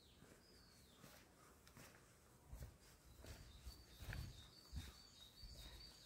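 Faint birdsong: a short falling high note, then from about halfway a bird repeating quick high chirps that alternate between two pitches. A few soft low thumps come in between.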